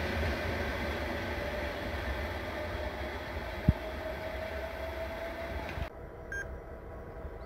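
Passenger train pulling away, its running noise fading as it recedes, with a faint whine rising slowly in pitch and a single sharp knock about three and a half seconds in. The sound drops abruptly about six seconds in.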